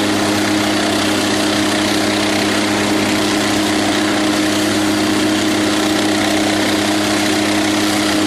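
Steady engine drone, a constant pitched hum over a wash of noise, with no change in speed or pitch.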